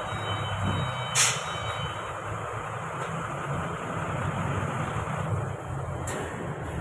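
Heavy truck's diesel engine running steadily at low speed, with a short burst of hissing air about a second in.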